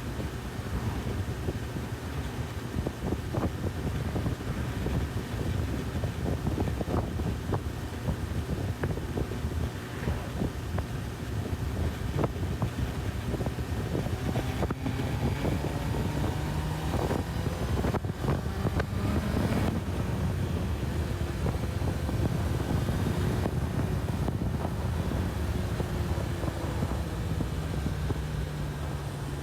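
Honda CB1000R's inline-four engine running on the move, with wind rushing and buffeting over the microphone. Around the middle the engine note climbs several times as the bike accelerates through the gears.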